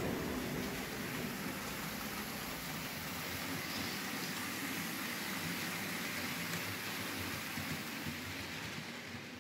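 Märklin H0 model freight train of open wagons rolling past on metal M-track: a steady rolling hiss that slowly fades near the end.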